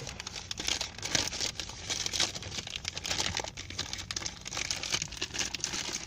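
Plastic packaging crinkling and tearing as a pack of tennis balls is pulled open by hand, in many irregular crackles.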